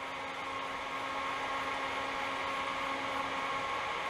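Steady mechanical hum with a hiss and a few constant whining tones from running laboratory equipment; the lowest tone fades out near the end.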